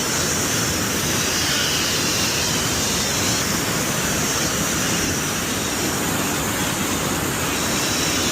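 Waterfall rushing steadily, a continuous even noise of falling water.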